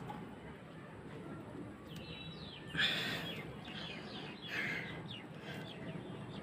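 Birds chirping, with a few short calls about three and about four and a half seconds in, over steady low background noise.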